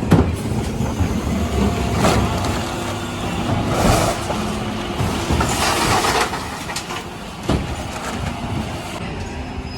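Dennis Elite 6 refuse lorry running, with sharp knocks near the start, about two seconds in and later on, and two longer rushing, rattling bursts around four and six seconds in from the bin-lifting and emptying.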